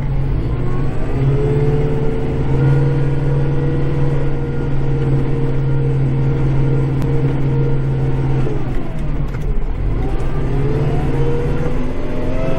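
Kubota tractor's diesel engine heard from inside the cab, working steadily while clearing snow. Its pitch sags about three-quarters of the way through, then climbs back up as it comes under load and revs again.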